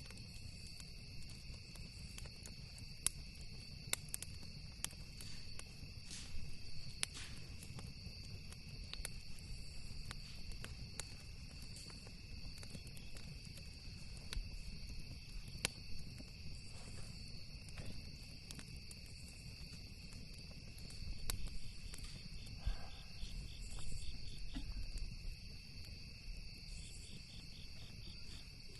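Campfire crackling, with scattered sharp pops and snaps of burning wood, over steady shrill trilling of crickets and a low rumble underneath.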